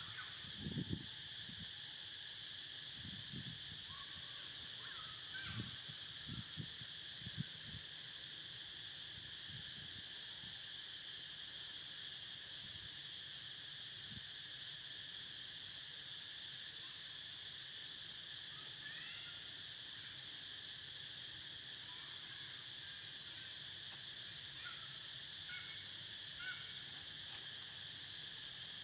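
Steady insect chorus: a continuous high trill. A few low bumps come in the first several seconds, and short chirps are scattered through the second half.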